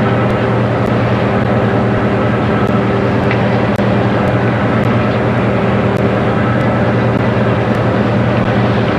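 Boat engine running steadily under way, an even, unchanging drone.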